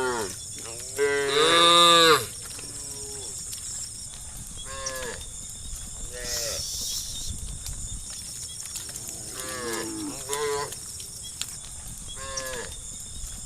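Cows in a herd mooing, several separate calls one after another; the longest and loudest comes about a second in, with shorter moos later. A steady high insect buzz carries on underneath.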